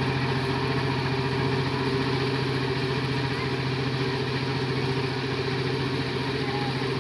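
Power tiller engine running steadily at an even speed.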